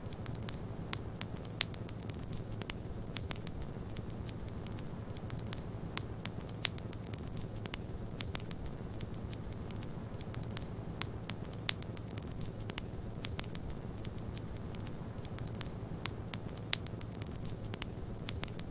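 Wood fire in a fireplace crackling, with irregular sharp pops, a few louder than the rest, over a steady low rumble of snowstorm wind.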